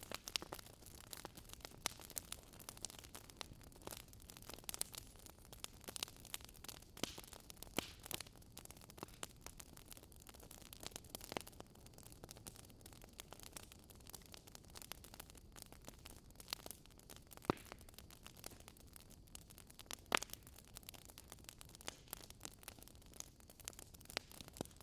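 Wood campfire crackling: irregular sharp snaps and pops, a couple of them louder in the second half, over a faint steady hiss.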